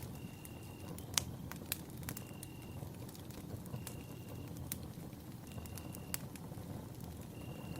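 Campfire crackling, with scattered sharp pops from the burning wood; the loudest comes a little after a second in. A short high note, held steady for about half a second, repeats every second and a half or so over the fire.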